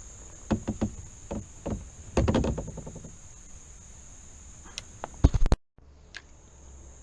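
A run of sharp knocks and clatters, several in quick succession early on and a few more loud ones later, over a steady high-pitched insect drone; the sound cuts out completely for a moment near the end.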